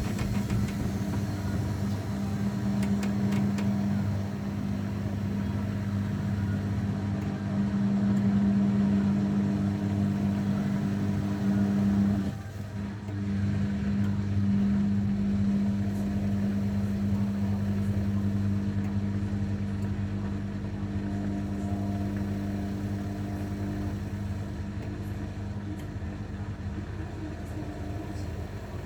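Zanussi washing machine running a wash cycle: a steady motor hum from the turning drum, which stops for a moment about twelve seconds in and starts again.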